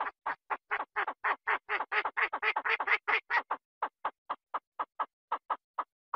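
A rapid run of short, quack-like calls, about five a second, loudest in the middle and thinning out toward the end.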